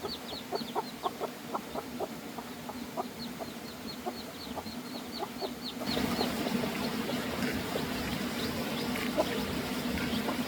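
Chickens clucking with many quick, high falling peeps. About six seconds in, the sound cuts abruptly to a steady background noise with a low hum.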